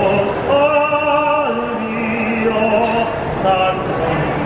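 A gondolier singing in an operatic style, holding long, steady notes that step down in pitch.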